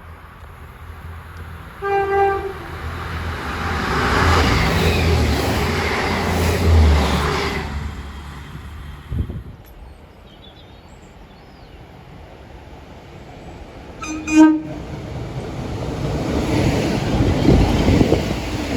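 A train sounds a short horn blast about two seconds in, then runs past with a swelling rush of wheel and rail noise that dies away after about eight seconds. A second short horn blast comes around fourteen seconds, followed by rail noise building again as another train nears.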